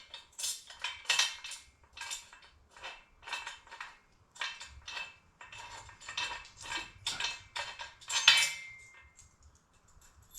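Loose steel bolts, washers and nuts clinking and clattering against each other as they are handled, an irregular run of short, sharp metallic clinks about one or two a second, the loudest one near the end with a brief ring.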